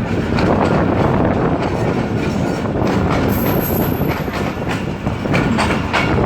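Passenger train running along the line, heard from aboard a coach: a steady loud rumble with the wheels clattering over rail joints.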